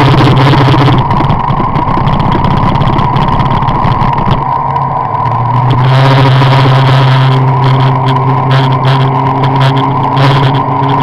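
Car engine running steadily under way, with road and wind noise. Its note shifts and drops about four to five seconds in, then settles again.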